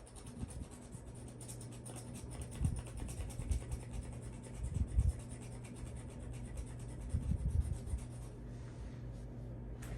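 Scratch-off coating on a trading-card bonus redemption card being scraped away with a knife blade: a fast run of short scratching strokes that stops near the end, with a few dull bumps of the card being handled.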